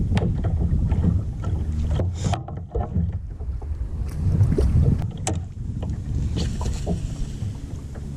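A kayak being paddled and manoeuvred: short knocks and splashes of the paddle and hull, over a steady low rumble of wind on the microphone.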